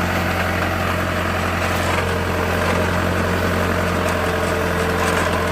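Mahindra Arjun 605 DI tractor's four-cylinder diesel engine running steadily at constant speed, with an unchanging low drone.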